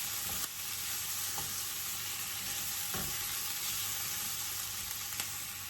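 Onion, garlic, ginger and turmeric sizzling in a little oil in a frying pan as they brown, with a steady hiss and a few light ticks of stirring.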